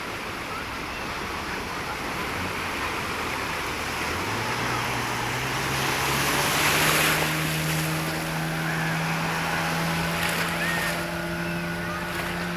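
Motorboat engine humming, its pitch climbing a few seconds in and then holding steady, over a steady wash of surf and wind, with a louder swell of surf or wind near the middle.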